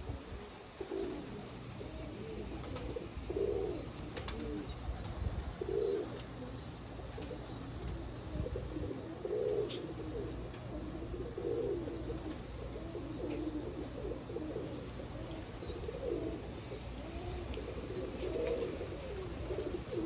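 Pigeons cooing, overlapping low warbling coos roughly once a second, with faint higher chirps above them and a steady low wind rumble underneath.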